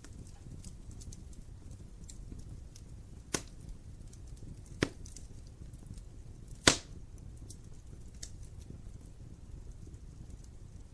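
Wood fire burning in a fireplace: a low steady rumble of flames with many small crackles, and three sharp pops of the logs, a little past a quarter of the way in, near the middle, and the loudest at about two-thirds of the way in.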